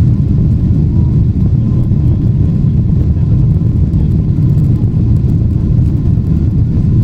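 Steady, loud low rumble of a Boeing 777-300ER heard from inside the cabin: its GE90 engines and the airflow and rolling noise of the airframe, with no change in pitch or level.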